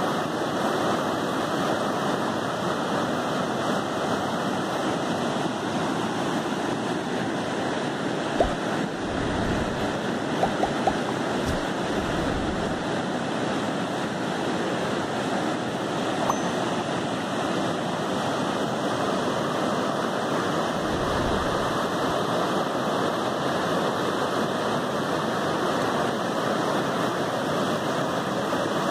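A muddy river in flood rushing over rapids: a steady, loud wash of churning water. A few low thumps hit the microphone around ten seconds in and again about twenty seconds in.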